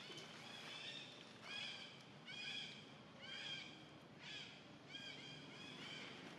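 A small young animal's repeated high cries, short arching calls coming about once a second.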